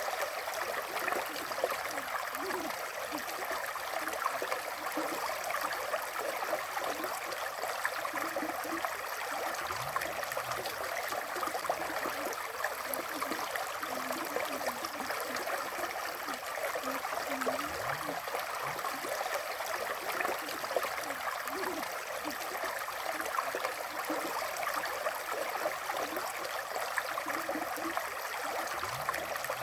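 River water flowing steadily, an even rushing sound with occasional small gurgles.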